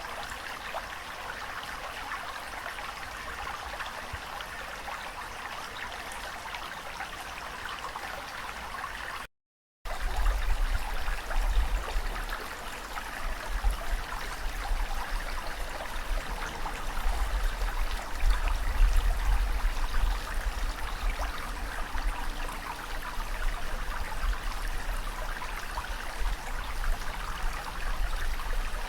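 Running water, a steady trickling wash. About a third of the way in it cuts out for half a second, then comes back louder and more uneven, with a deep rumble underneath.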